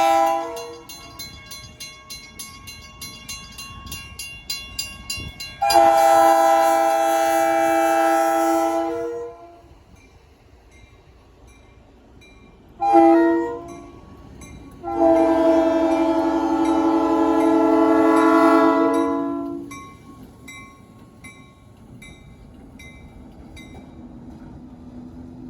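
Diesel locomotive air horn sounding several steady tones together: the end of one blast, then long, short, long, the close of the long-long-short-long grade-crossing signal. Between the first two blasts there is a run of regular clicking, and a low rumble lies underneath throughout.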